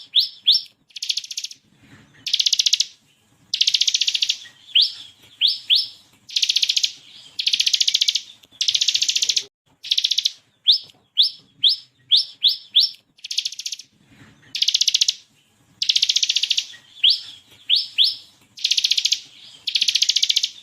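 Bar-winged prinia (ciblek kristal) singing loudly. Short, sharp, rising whistled notes come in quick runs of three to five and alternate with rapid buzzing trills, each lasting well under a second.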